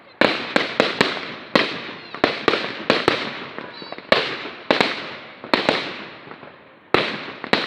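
Fireworks display: a rapid series of shell bursts and bangs, each followed by a rumble and crackle that dies away. The biggest bursts come about a quarter second in, around four seconds in and near the end.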